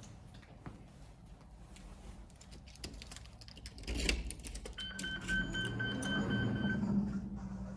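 Light clicking and rattling with a knock about four seconds in, then a steady electronic beep held for about two seconds over a low mechanical hum.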